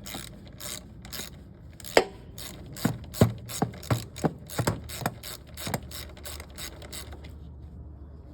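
Socket ratchet clicking in a quick series of sharp clicks as two 9/32 screws are backed out of the mower engine, stopping about seven seconds in.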